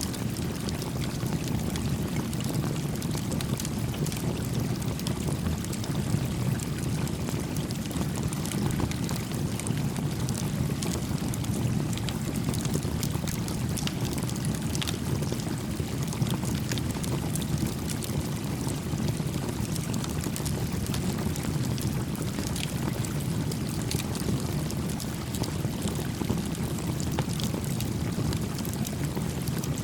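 A small creek flowing gently, a steady low water noise, with the faint pops and crackles of a small campfire scattered throughout.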